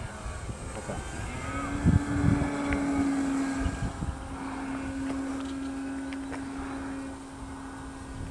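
A steady motor hum that comes in about a second and a half in and holds an even pitch, with wind rumbling on the microphone and a couple of knocks near the start.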